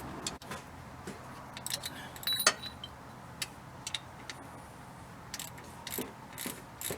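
Metal hand tools clinking and a ratchet wrench clicking while motor mount bolts are worked loose, with one sharp metallic clink that rings briefly about two and a half seconds in.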